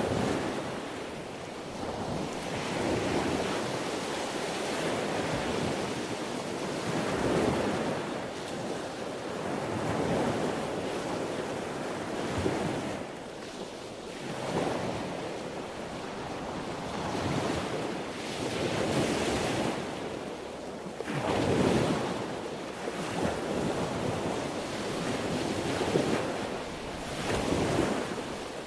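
Sea waves breaking: a continuous rush of surf that swells and eases every few seconds, with its strongest surge about three-quarters of the way through.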